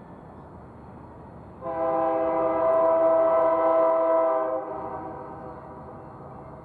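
Freight locomotive air horn sounding one long blast of about three seconds, a steady multi-note chord that drops off sharply and then fades, over a low rumble.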